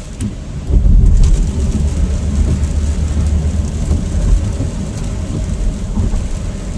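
Low rumble of a car's tyres and road noise on a wet road, heard inside the moving car's cabin, with a faint hiss of rain and spray. The rumble grows louder just under a second in and then holds steady.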